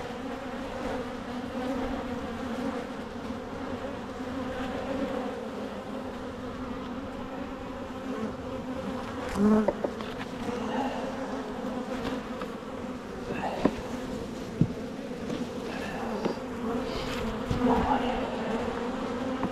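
Honeybees buzzing in a steady hum around an open hive, with a few sharp knocks, the loudest about halfway through.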